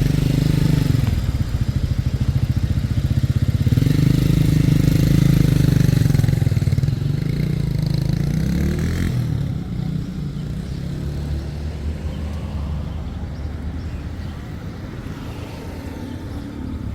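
A motor vehicle's engine, which may be a motorcycle, revving and passing close by, its pitch rising and falling twice in the first several seconds. It then settles into a lower, steadier running sound that slowly fades.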